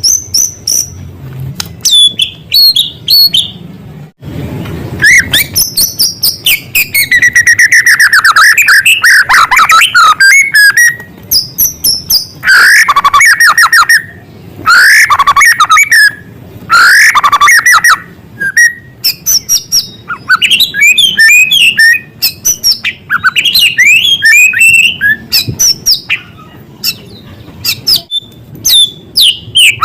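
White-rumped shama singing loud, fast, varied song: rapid chirps, trills and rising and falling whistles strung together with short pauses, including mimicked calls of small birds.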